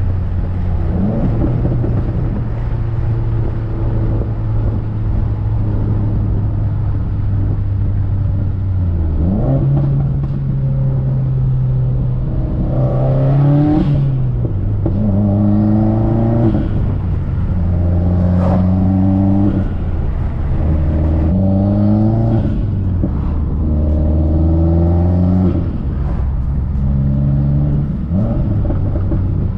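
Turbocharged Subaru WRX flat-four engine, heavily modified, running at a steady cruise. About nine seconds in the revs step up, and from about twelve seconds they climb and fall back again and again, every two to three seconds.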